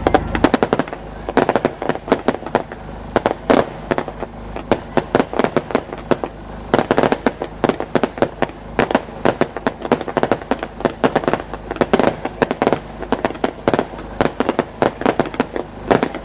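Aerial fireworks going off in a rapid, dense barrage: many sharp bangs and crackling bursts a second, with louder clusters of reports throughout.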